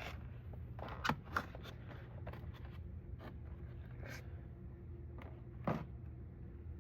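Hands handling plastic and foam packaging: a few light clicks and scrapes, over a steady low hum.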